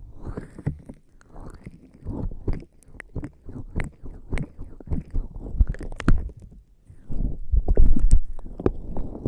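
Wet, squelching rubbing of skin slick with lubricating jelly against an ear-shaped ASMR microphone, in irregular strokes with small sticky clicks. Near the end comes a heavier, louder stretch of pressing and rubbing.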